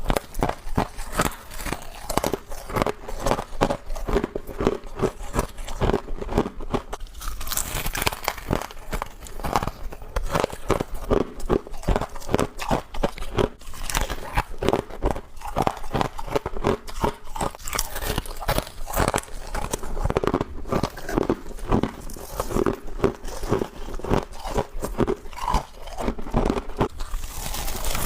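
Close-up chewing and crunching of frost: a steady run of rapid, crisp crunches as the ice is bitten and ground between the teeth.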